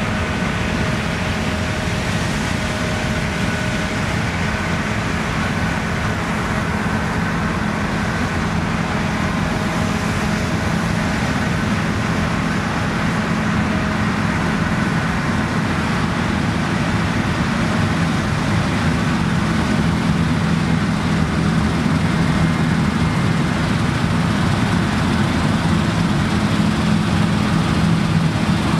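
Claas Lexion combine harvester running steadily while harvesting rye: a continuous heavy diesel drone with a steady machinery whine, growing a little louder toward the end.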